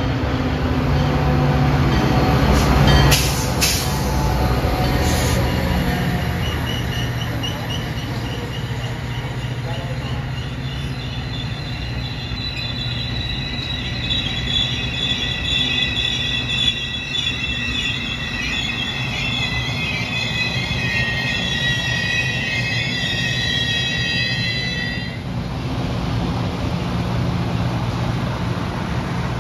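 Metra commuter train coming into a station: the diesel locomotive rumbles past with a few sharp clanks from the wheels about three to five seconds in, then the brakes on the bilevel cars squeal in a high, wavering multi-tone squeal as the train slows, cutting off sharply about 25 seconds in. A low rumble from the train goes on underneath.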